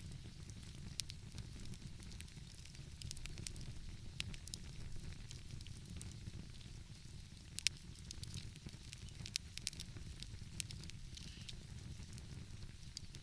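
Wood fire crackling, with irregular sharp pops and snaps, the loudest about halfway through, over a steady low rumble.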